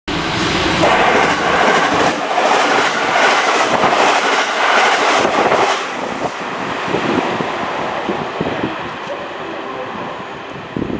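Passenger train running past close by, its wheels clattering over the rail joints, then fading away after about six seconds into a quieter rumble.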